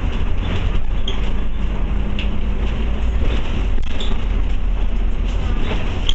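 Scania OmniCity bus running, heard from inside the passenger saloon: a steady engine and road rumble with scattered short rattles and clicks.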